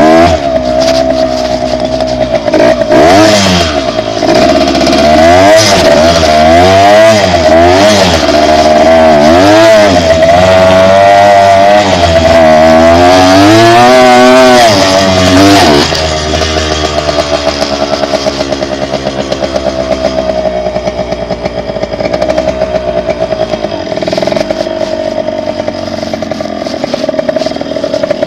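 Dirt bike engine revving up and dropping back again and again for about the first half, then running steadier and a little quieter from about halfway on.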